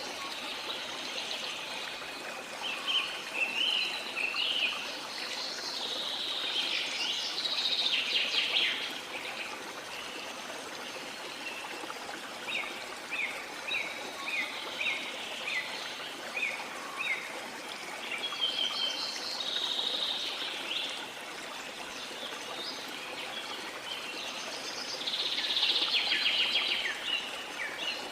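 Flowing river running steadily, with birds calling over it: bursts of song several times, and a run of short repeated chirps, about two a second, in the middle.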